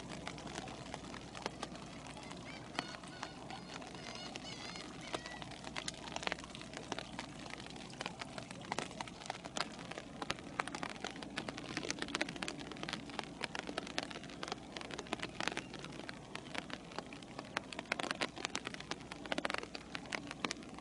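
Rain falling, drops ticking irregularly on a hard surface close by over a steady hiss; the drops grow denser about a third of the way in.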